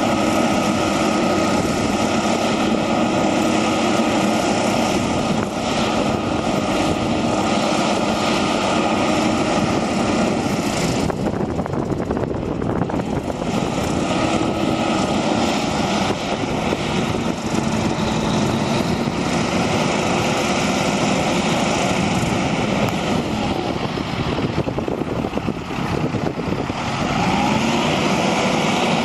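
Heavy diesel truck engine running steadily, a dense mechanical drone with a few steady whining tones; the pitch shifts near the end.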